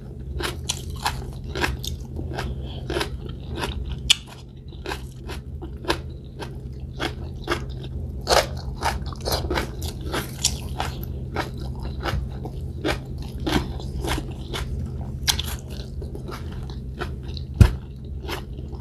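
Close-miked eating sounds: chewing and crunching of fried fish eaten by hand, with many small mouth clicks and smacks over a low steady hum. A single sharp thump comes near the end.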